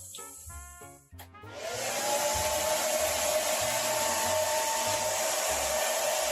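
A small electric motor starts up about a second and a half in, its whine climbing briefly and then holding steady over a loud rush of air. Background music plays for the first second.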